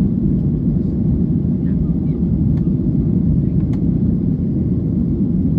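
Steady, loud rumble of a Boeing 737 airliner's engines and airflow heard inside the passenger cabin.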